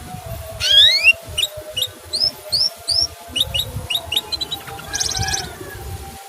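Canary calling: a long upward-sweeping whistle, then a run of short rising chirps, about two to three a second, and a brief buzzy trill near the end.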